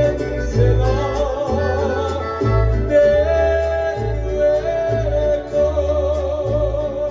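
Mariachi band music: a plucked bass line moving under long, wavering held melody notes, with singing.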